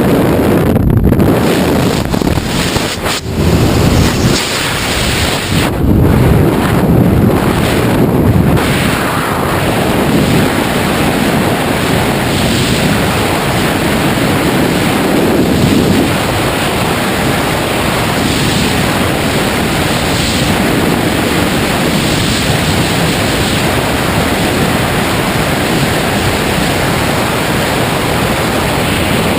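Wind rushing over the microphone in skydiving freefall, a loud steady noise. It is uneven for the first eight seconds or so, then settles into an even rush.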